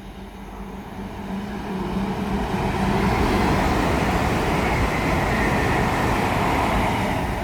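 Avanti West Coast Class 807 Evero electric train passing through at speed: the rush of wheels and air swells over the first three seconds, then stays loud as the train goes by.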